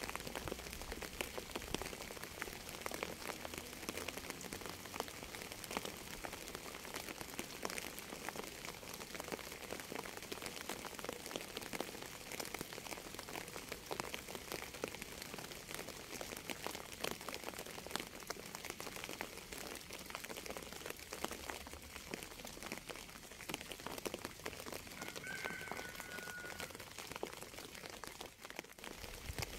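Steady rain falling: a dense patter of separate drops over an even hiss. One short, faint whistled note sounds about 25 seconds in.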